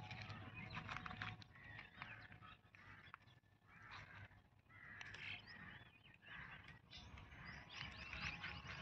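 Faint outdoor background of birds calling and chirping, many short calls overlapping, over a low steady hum.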